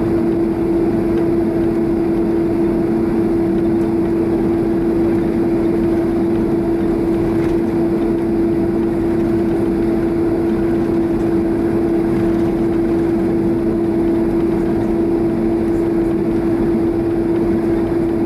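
Steady cabin drone of a Boeing 767-300 taxiing, its GE CF6 turbofan engines at idle, with a strong hum held at one pitch.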